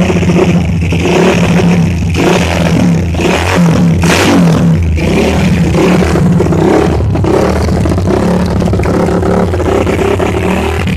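Suzuki Satria FU motorcycle's single-cylinder four-stroke engine running and being revved, the pitch rising and falling with the throttle.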